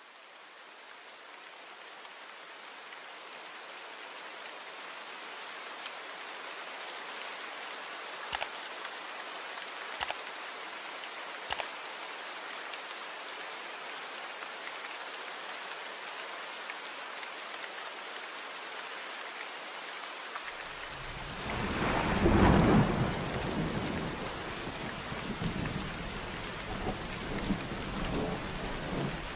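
Steady rain hiss fading in, with three sharp taps of drops a second or two apart. About two-thirds of the way in a deep thunder rumble builds, peaks loudly and keeps rolling under the rain.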